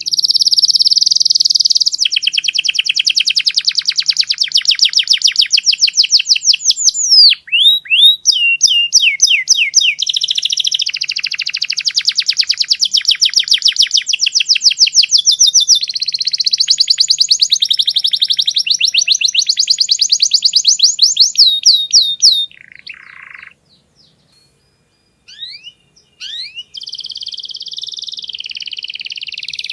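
Domestic canary singing long trills of fast, evenly repeated high notes, with a run of slower swooping notes about seven seconds in. The song breaks off for a few seconds after about twenty-two seconds, then starts up again near the end.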